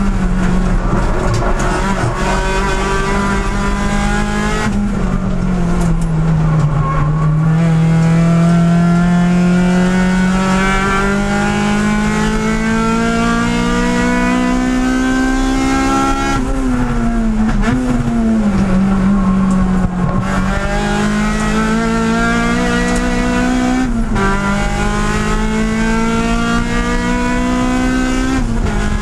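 Race car engine heard from inside the cockpit, working hard through a lap: the pitch climbs steadily through long pulls and drops sharply several times as the driver lifts or changes gear, with a gear change just before the end.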